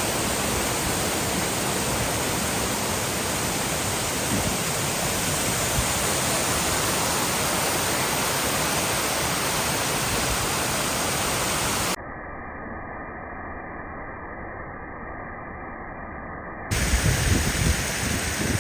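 Waterfall rushing in a steady, even roar. About twelve seconds in it drops to a quieter, muffled version for a few seconds, then comes back louder with low rumbling surges.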